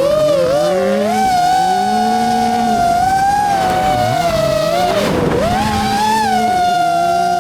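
Rally car engine running hard at high revs, its pitch climbing and dropping again and again with throttle and gear changes, with a sharp dip about five seconds in as the driver lifts off and picks up again.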